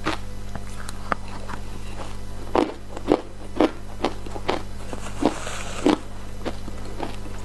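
Ice being bitten and chewed close to the microphone: sharp crunches at an uneven pace, roughly one every half second, over a steady low electrical hum.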